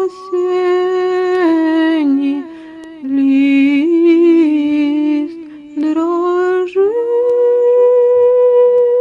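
A woman's solo voice singing a slow Russian folk melody without words, in long held notes with short breaths between phrases. It ends on a long held high note.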